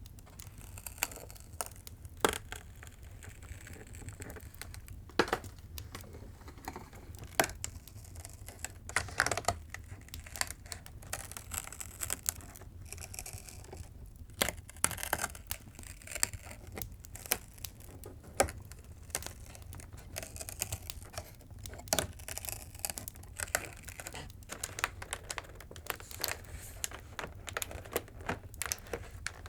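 Cardboard advent calendar being handled: doors torn open and paper crinkled, in irregular sharp snaps and rustling stretches over a steady low hum.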